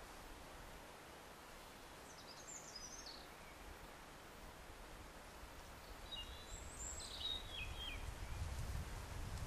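Quiet woodland ambience with a small songbird singing two short, high, quick phrases, about two seconds in and again about six seconds in. A low rumble builds near the end.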